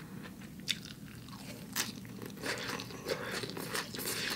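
Close-miked eating: chewing with scattered crisp crunches of fresh lettuce and vegetables from a vermicelli bowl, the crunches coming more often from about two seconds in.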